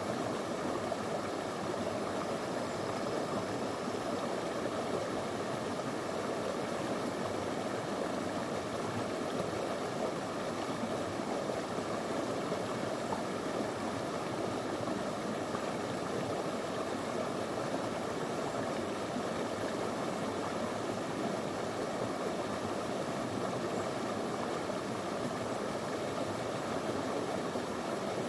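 Small, clear river flowing over stones: a steady, even rush of running water.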